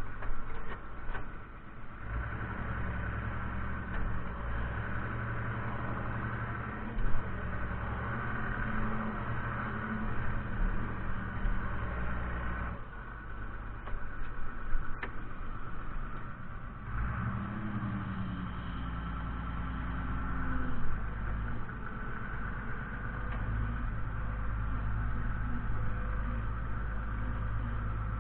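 Fiatagri 130-90 tractor's diesel engine running steadily. It eases off for a few seconds about halfway through, then its pitch shifts as it picks up again.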